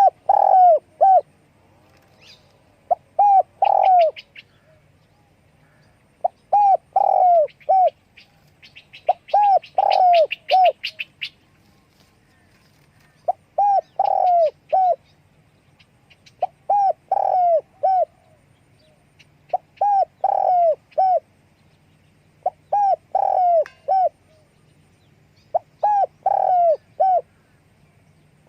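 Spotted dove cooing: nine short phrases of about four notes each, repeated roughly every three seconds. A small bird chirps higher-pitched twice in between, about four seconds in and around ten seconds in.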